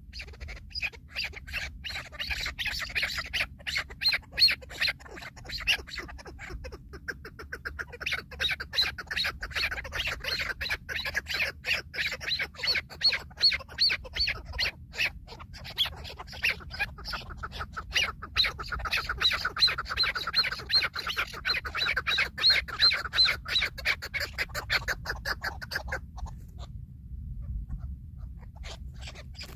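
Chukar partridge calling: a long run of rapid, repeated clucking notes that break off near the end, over a low steady rumble.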